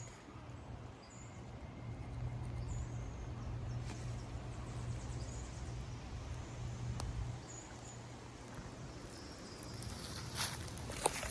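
Outdoor ambience: a low steady hum with a few faint, short, high chirps, then crackling and rustling near the end.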